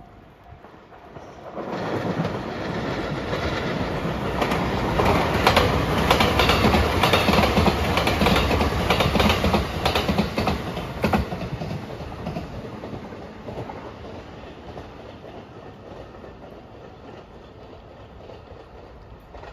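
Marine Liner rapid train, an electric multiple unit, passing close by. The wheel-and-rail rumble builds from about two seconds in, with sharp clicks of the wheels over rail joints while it is loudest, then fades away after about eleven seconds.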